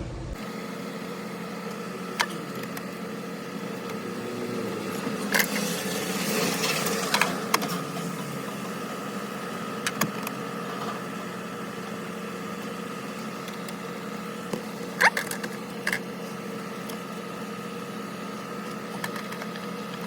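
Steady hum of a truck cab's newly replaced air-conditioner blower motor running and pushing air, now working again, over the engine idling. A few sharp clicks, and a brief rush of air about six to seven seconds in.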